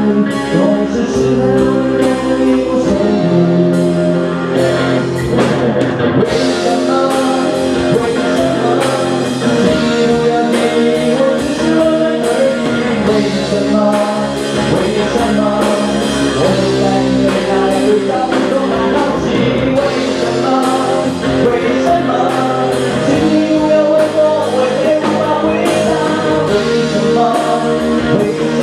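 Live band playing a Mandarin pop-rock song: singing over guitar and drum kit with a steady beat.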